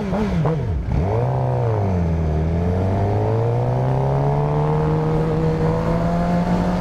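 Motorcycle engine revving up and down with the throttle, then pulling steadily, its pitch slowly rising over the last few seconds.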